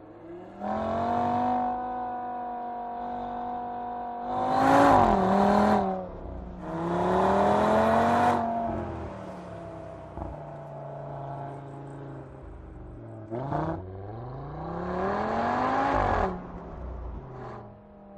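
A 2019 Audi TT RS's turbocharged 2.5-litre five-cylinder engine accelerating hard in three surges, its note climbing through the revs and then dropping away on each lift or shift. It ends with a couple of brief sharp cracks.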